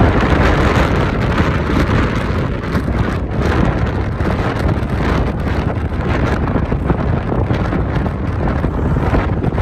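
Volkswagen e-Up electric car driving at about 50 km/h: a steady rush of tyre noise on the road with wind noise and no engine sound. The noise comes mostly from the wheels on the road, not from the car's drivetrain.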